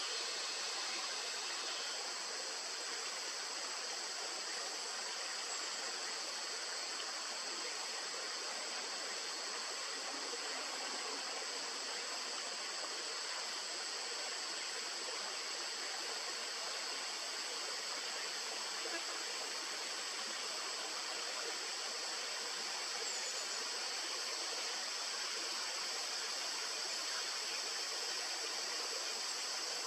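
A river or stream running steadily: an even rush of water with no breaks.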